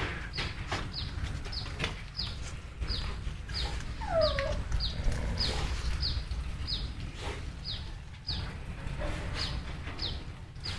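A bird chirping in short, high, falling notes about twice a second, with a brief falling whine about four seconds in.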